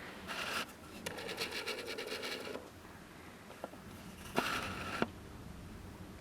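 Scratching and rubbing handling noises, in short patches, with a few light clicks, the last patch ending in a click about five seconds in.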